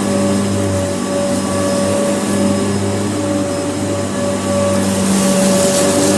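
Kenmore upright vacuum cleaner running with a steady motor hum and whine.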